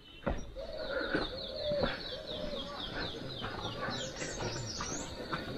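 Birds calling: a short high chirp repeated about three times a second, each falling in pitch, with a lower held call in the first two seconds.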